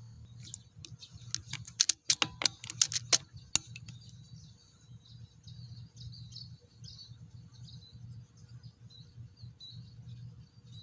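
Small birds chirping in short high notes throughout, with a quick run of about ten sharp clicks in the first few seconds.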